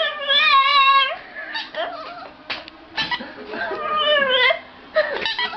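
A cat meowing: a long, wavering high-pitched call at the start and another rising one near four seconds in.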